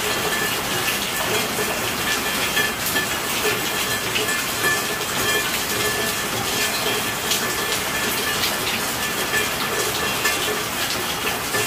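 Steady rainfall: a constant hiss of rain with a dense patter of individual drops striking a surface.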